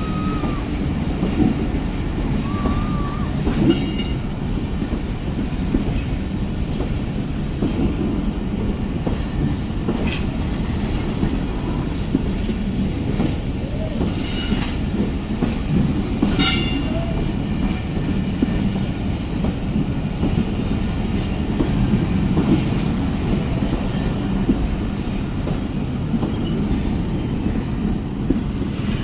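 Passenger express train passing at high speed: a steady heavy rumble of coaches and wheels on the rails, with brief high wheel squeals about four seconds in and again past halfway.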